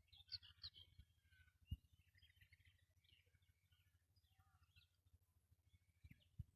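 Faint chirping of several small birds, with a few low thumps, the loudest a little under two seconds in.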